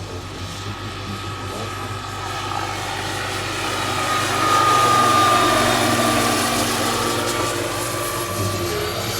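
Turbine-powered scale RC model of an Agusta AW109 K2 helicopter in flight: a steady turbine whine over the rotor noise. It grows louder to a peak about halfway through and then eases off, the whine dropping slightly in pitch as it goes, as the model passes by.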